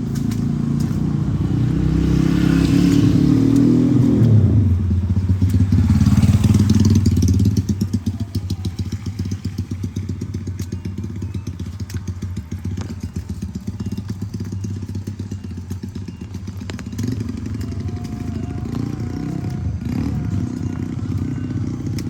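Motorcycle engine running close by, loudest in the first seven seconds with a drop in pitch about four and a half seconds in, then running steadier and quieter.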